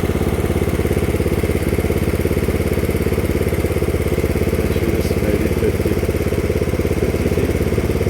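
A small engine running steadily at an even idle, its firing pulses regular and unbroken.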